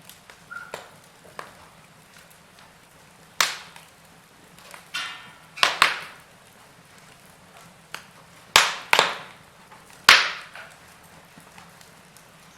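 Burning logs in a fireplace crackling: scattered sharp pops and snaps, the loudest coming in quick pairs, over a faint steady hiss.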